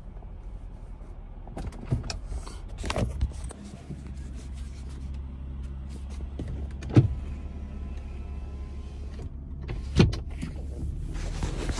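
Car engine running, heard from inside the cabin as a steady low hum, with several sharp knocks and clicks; the loudest come about seven and ten seconds in.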